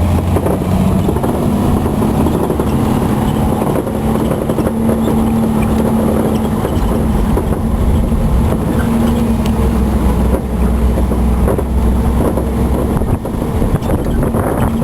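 Engine of a moving farm-tour vehicle running steadily, a continuous low rumble with a humming note.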